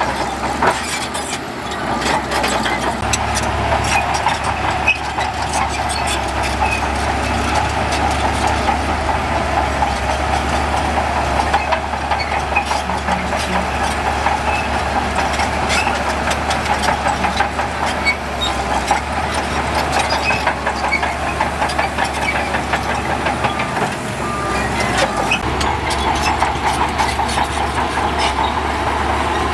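Diesel engines of heavy earthmoving machinery running steadily, with frequent short metallic clanks and knocks throughout.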